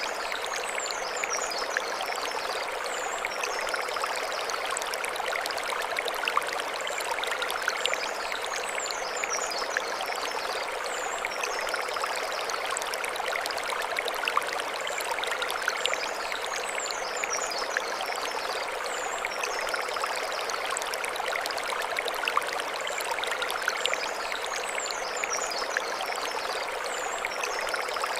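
Mountain stream flowing over stones in a steady rush of water. Clusters of short, high bird chirps come back about every eight seconds.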